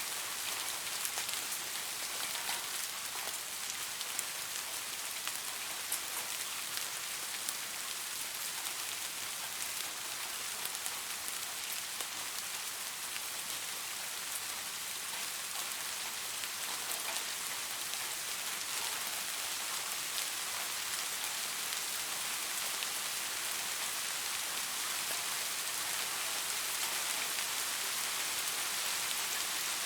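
Steady rain falling, a dense hiss with many small droplet ticks.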